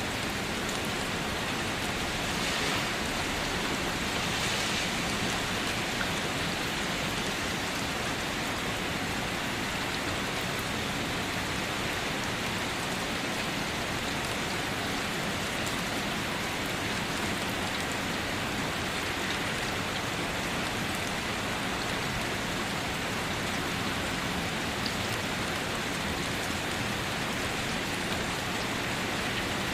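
Steady rain falling and pattering on surfaces, an even, unbroken hiss of drops with no thunder.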